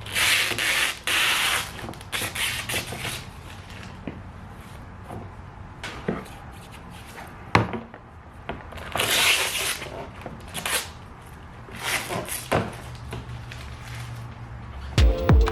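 Handling noises of parts and tools: irregular rustling and rubbing with a few sharp clicks, and short hissing bursts near the start and about two-thirds of the way through.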